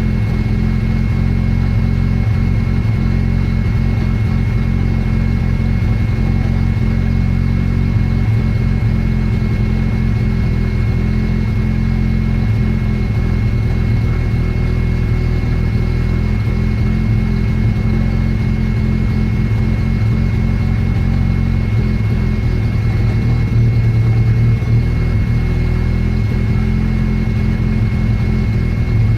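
Mazda RX-7 rotary engine running steadily, in a car whose engine won't settle to an idle. It rises a little in level for a couple of seconds about three-quarters of the way through.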